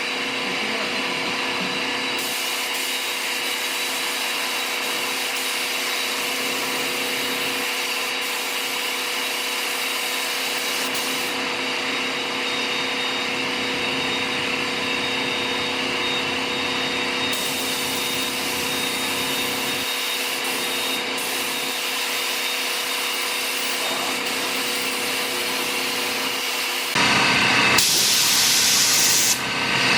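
A motor-driven shop machine running steadily with a constant whirring hum. Near the end, compressed air hisses loudly for about two and a half seconds.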